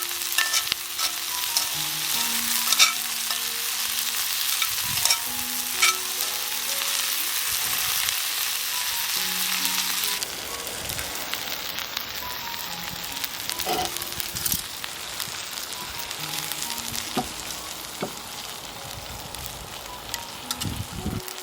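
Chicken frying on a shichirin charcoal grill, a steady sizzle with occasional sharp clicks of a utensil against the pan. The sizzle drops in level about halfway through.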